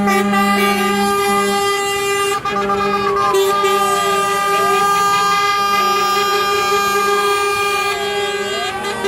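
Truck air horns blaring steadily together, with a siren slowly wailing up and down through them, twice.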